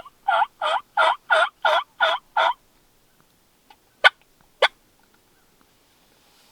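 A run of seven evenly spaced wild turkey yelps, about three a second, in the first two and a half seconds, followed by two sharp clicks.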